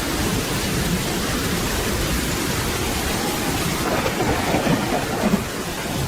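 Steady rain falling, with a low, rolling rumble of thunder underneath.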